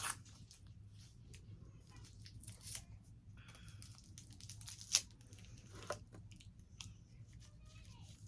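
Wrapper of a small milk fudge candy being crinkled and torn open by hand, in scattered crackles with one sharper snap about five seconds in.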